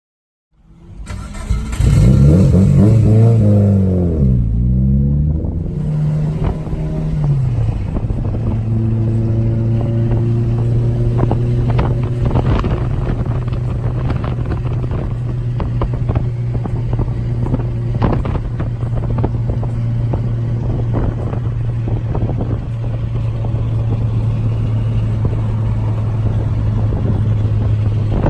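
Car engine revving, its pitch rising and falling for a few seconds, then settling into a steady low idle, with scattered clicks and knocks over it.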